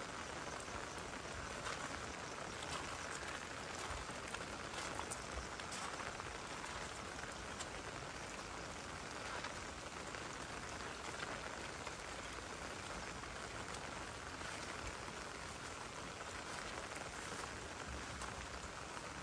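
Rain falling steadily, with scattered single drops ticking on surfaces.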